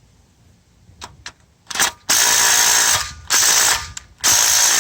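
Handheld power tool running in three bursts, spinning out oil pan bolts on a 6.7 Powerstroke engine, preceded by a few light clicks. The last and longest burst ends in a rising whine.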